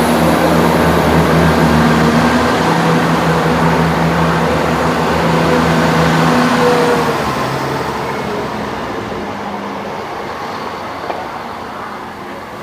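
Train pulling away from the platform: a loud steady engine drone with a low hum, which starts to fade about seven seconds in and keeps dying away as the train leaves.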